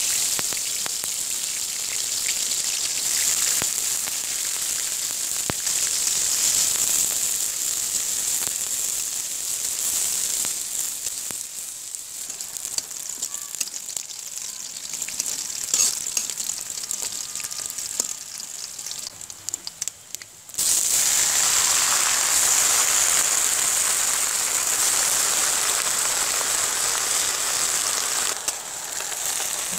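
Sliced garlic and green chilies frying in hot oil in a wok: a steady sizzle with crackles. About twenty seconds in, it cuts and comes back louder.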